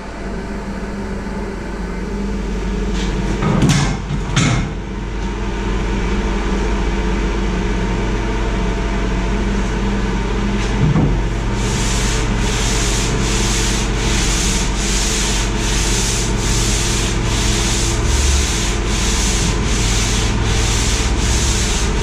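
Sanding vinyl ester fairing compound on a fibreglass boat hull: a steady sanding noise with a low hum underneath, and two knocks a few seconds in. From about halfway it turns into a rhythmic hiss of back-and-forth strokes, about two a second.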